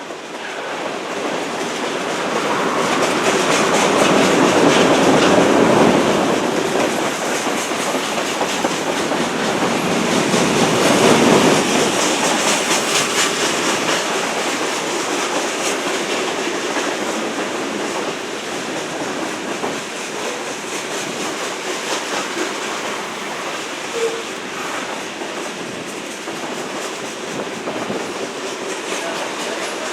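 A train rolling past with the clickety-clack of steel wheels over the rail. The sound swells twice, a few seconds in and again near the middle, then runs on steadily.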